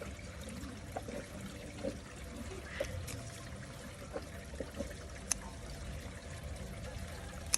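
Water trickling, with scattered small drips and a few sharp clicks.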